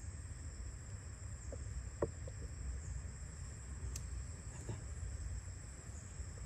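Steady high-pitched insect drone, like crickets, over a low rumble, with a few faint short clicks or calls, the strongest about two seconds in.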